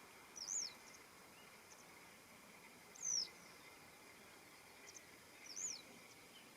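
Western yellow wagtail giving three short, high call notes about two and a half seconds apart, each a quick slurred note that drops in pitch at the end.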